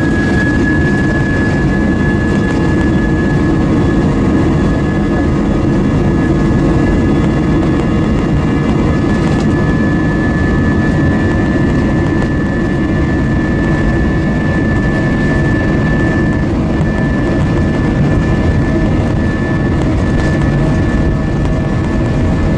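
Cabin noise of an Airbus A320-232 at high engine thrust: a steady deep rumble with a high, even whine from its IAE V2500 turbofan engines.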